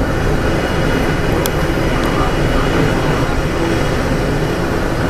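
Diesel multiple unit's engines running steadily with a dense low rumble, and one faint click about a second and a half in.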